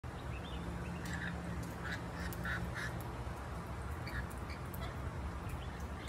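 Wild birds chirping in short calls, most of them between about one and three seconds in, over a steady low hum.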